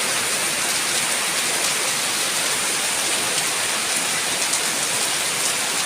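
Heavy rain falling steadily, a dense even hiss with a few individual drop hits standing out.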